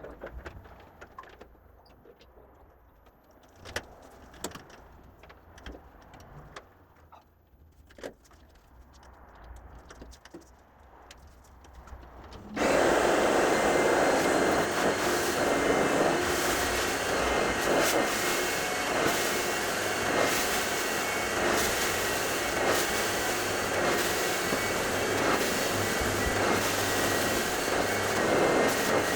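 Faint scattered knocks and clicks of handling, then about twelve and a half seconds in a carpet-cleaning machine's motor switches on suddenly and runs with a loud, steady rushing noise.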